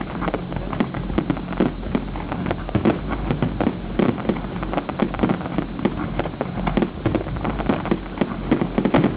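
Fireworks display: a dense, rapid barrage of bangs and crackles, many sharp reports overlapping with no pause.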